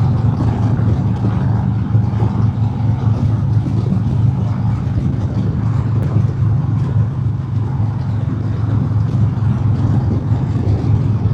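Harley-Davidson Milwaukee-Eight V-twin running steadily at highway cruising speed, heard through a helmet mic with wind noise over it.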